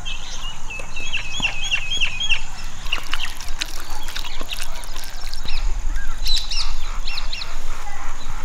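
Birds calling outdoors in quick runs of short, high, hooked chirps, about four a second near the start, with further clusters later on.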